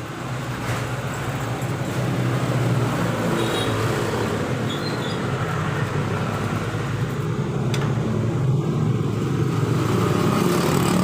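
A motor vehicle's engine running steadily, growing louder over the first couple of seconds and then holding.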